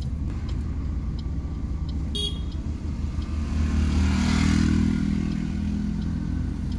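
Car engine running, heard from inside the cabin as a steady low rumble. About four seconds in, a vehicle's engine and tyre noise swells louder and then fades.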